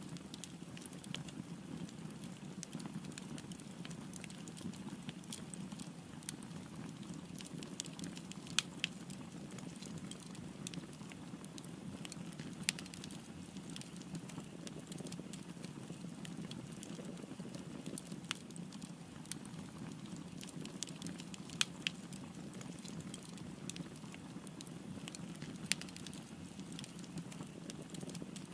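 Fire crackling: a steady low rumble of burning with a constant stream of small pops and a few sharper, louder cracks scattered through.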